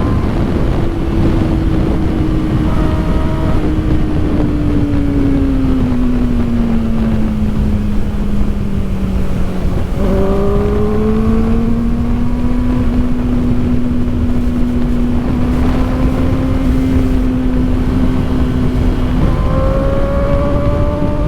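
Kawasaki Ninja ZX-4RR's inline-four engine running under way, its pitch sinking slowly for several seconds, then jumping up abruptly about ten seconds in at a gear change and holding steady, with another change near the end. Heavy wind rush on the microphone runs underneath.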